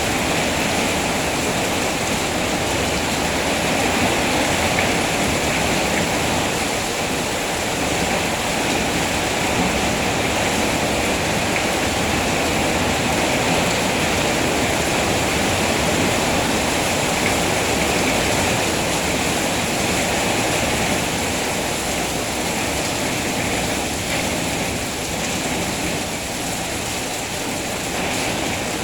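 Rain falling steadily, an even hiss with no single drops, thunder or other events standing out.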